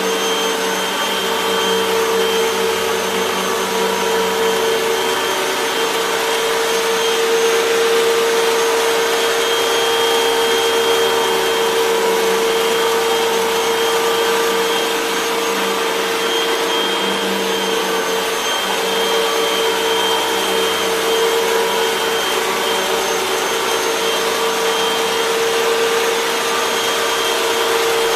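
Hoover WindTunnel 3 Pro Pet upright bagless vacuum cleaner running steadily: a constant motor whine over the rush of air.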